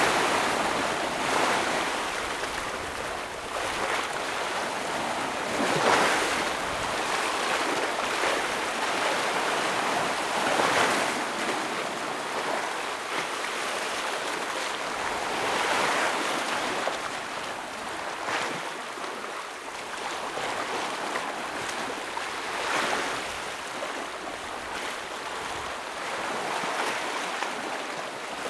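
Sea waves breaking and washing against rocks: a steady rush of surf with a louder surge every few seconds, the strongest about six and eleven seconds in.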